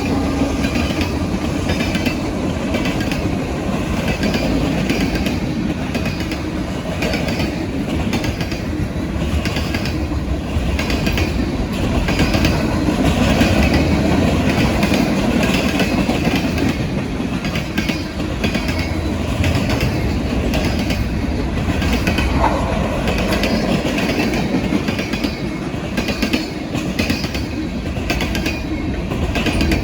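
Norfolk Southern freight cars rolling past at speed, wheels clicking in a steady rhythm over rail joints under a continuous rumble, with a brief wheel squeal about two thirds of the way through.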